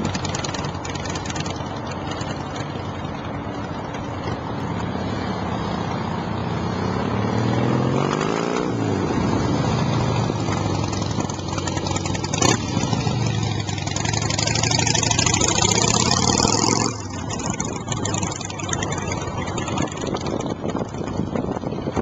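2006 Harley-Davidson Heritage Softail Classic V-twin running through a slip-on performance exhaust. It idles, is revved up and let fall back, then is revved again and held high for several seconds. The throttle snaps shut about three-quarters of the way through and it drops back to idle.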